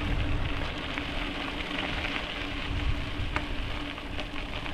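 Electric bike rolling along an unpaved track: a steady crackling hiss from the tyres with scattered small clicks, a low rumble of wind on the microphone, and a steady low hum.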